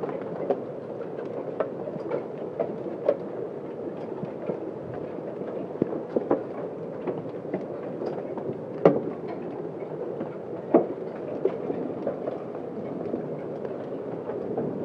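Large hailstones pelting down with heavy rain: a steady rush of falling hail broken by irregular sharp cracks of stones striking, the loudest about nine seconds in and again near eleven seconds in.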